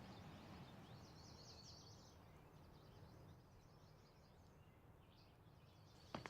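Near silence with faint birds chirping in quick twitters, in two spells, over a low steady background hum. There is a sharp tap right at the end.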